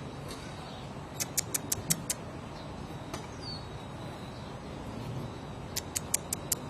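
Garden-scale (G-scale) model train running, its wheels clicking over rail joints in two quick runs of about six sharp clicks each, over a steady low rumble.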